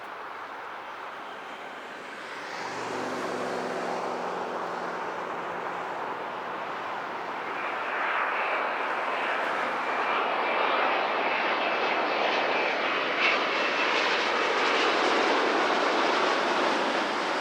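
Jet airliner's engines growing louder as the plane comes near, a steady rushing sound that swells about halfway through and stays loud, with a faint high whine over it.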